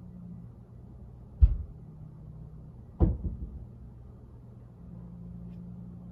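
Two heavy thuds coming down through the ceiling from the flat above, about a second and a half apart, the second followed by a few smaller knocks. They sound like something being dropped or a stomp on the floor overhead, over a steady low hum in the room.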